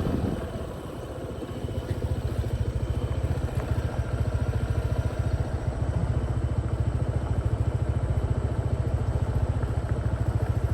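Motorcycle engine running at idle, a steady fast pulsing; it dips briefly about a second in and then comes back and holds steady.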